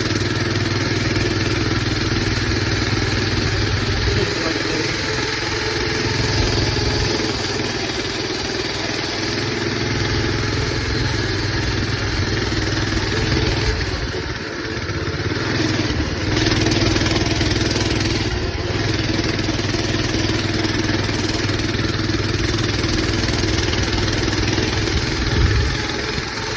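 Coleman BT200X minibike's single-cylinder engine running steadily under way, easing off briefly a couple of times past the middle.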